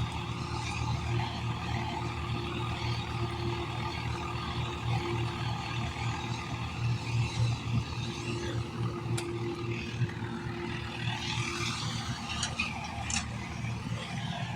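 Tractor's diesel engine running at a steady speed with an even low hum. A few sharp clicks come in near the end.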